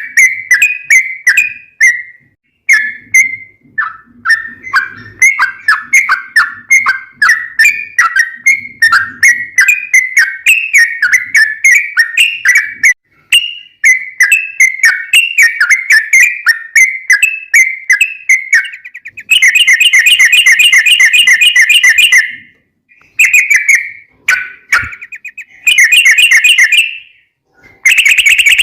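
Yellow-vented bulbul (trucukan) singing loudly: a long run of quick chattering notes. About two-thirds of the way through it breaks into a few separate bursts of fast, even trilling (the 'ropel' roll).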